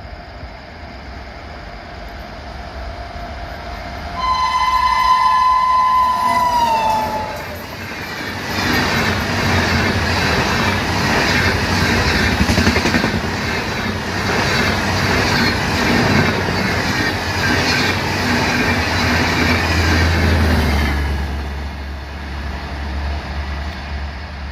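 WAP-7 electric locomotive's shrill horn sounding one long blast of about three seconds, its pitch sagging as it cuts off. The locomotive and its double-decker coaches then rush past with a loud rattle of wheels over rail joints for about twelve seconds before it drops to a lower rumble.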